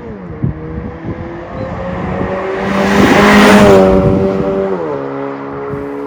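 Honda Civic 1.8's four-cylinder engine through an MS-R valved cat-back exhaust, the exhaust note building in loudness to a peak about three and a half seconds in. Near the end the pitch drops suddenly and settles to a lower, steady note.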